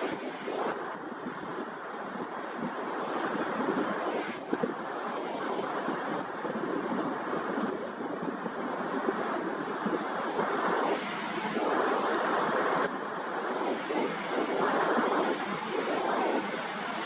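Rough sea surf washing and breaking in repeated surges, with wind buffeting the microphone.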